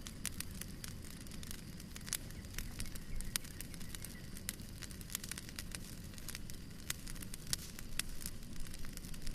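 Wood fire in a fireplace burning, with irregular sharp crackles and pops over a low steady rumble of the flames.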